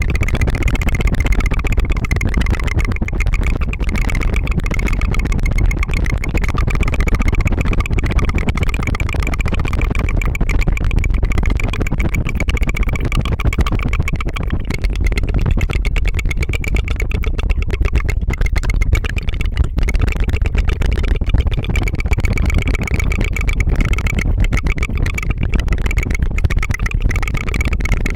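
Close-miked ASMR tongue fluttering: a rapid, continuous trill of the tongue that keeps up an even 'tu-tu-tu' like a helicopter.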